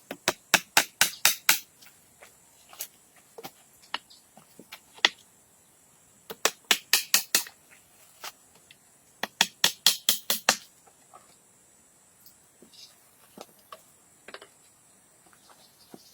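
Quick runs of sharp knocks, about six a second, in three bursts with scattered single knocks between: a hand tool striking wood.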